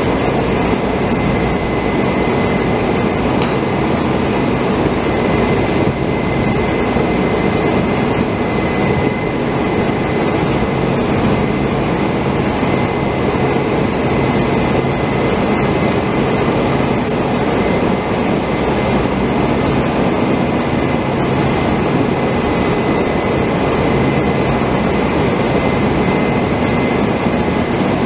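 Steady, loud machinery drone with no letup, carrying a thin steady high whine above it.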